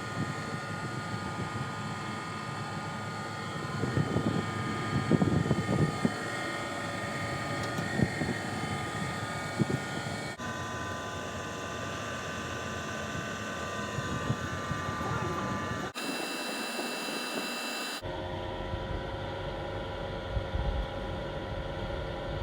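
Air-conditioning equipment running: a steady mechanical hum holding several constant tones. The sound changes abruptly three times, about ten, sixteen and eighteen seconds in.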